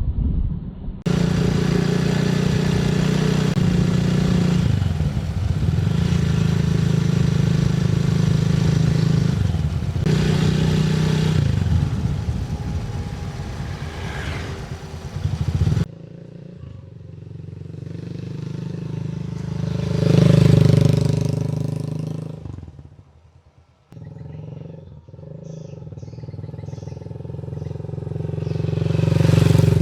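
Motor vehicle engine running steadily, with abrupt changes about a second in and near sixteen seconds. It then swells to loud peaks twice, around twenty seconds and again near the end, as if passing close.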